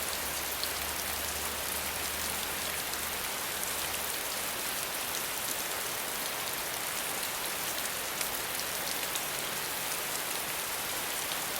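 Steady rain falling, a dense even hiss with many small drop ticks. A faint low hum sits under it for the first few seconds.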